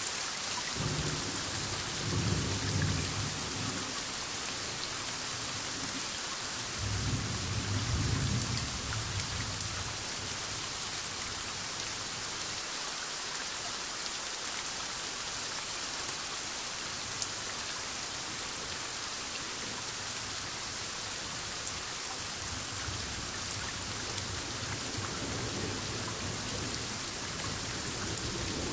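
Heavy rain falling steadily in a thunderstorm, with rolling thunder rumbling low about a second in and again about seven seconds in, and fainter rumbling later on.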